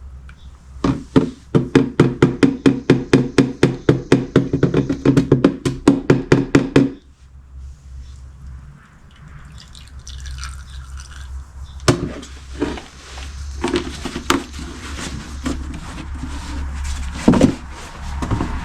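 Motor oil glugging out of a jug as it is poured into an engine's oil filler: a fast, even run of pitched glugs that stops suddenly after about six seconds. Scattered knocks and clicks follow.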